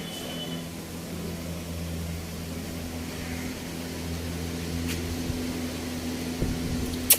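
Steady low machine hum, like a fan or motor running, with a sharp click near the end.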